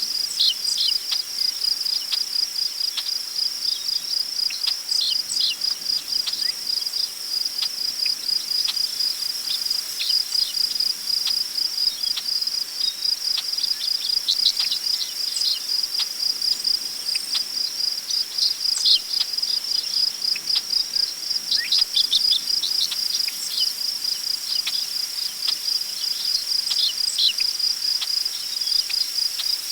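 Crickets chirping in a steady, rapid pulsing chorus, with scattered short bird chirps and calls over a soft background of prairie wind.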